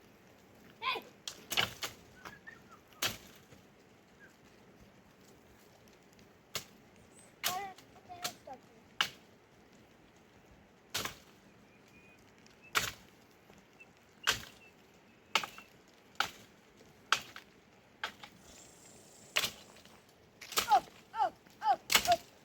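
Sharp chopping strikes, one every second or two at an uneven pace, with short animal bleats in the last couple of seconds.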